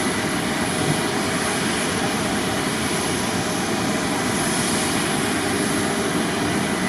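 Jet airliner engines running as a steady, loud rushing noise with a faint high-pitched whine.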